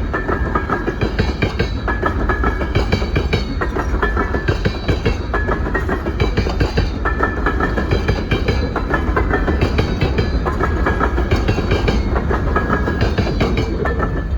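Freight cars of a Sydney Coal Railway coal train rolling past, their wheels clattering over the rail joints in a rhythm that repeats about every one and a half seconds as each car goes by.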